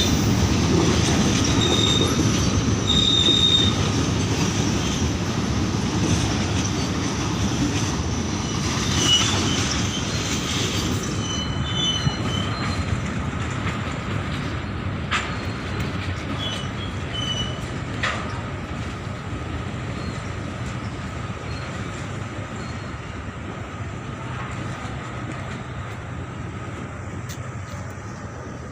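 Passenger train running on the rails, the steel wheels rumbling with several short high-pitched wheel squeals, the noise slowly fading as it goes.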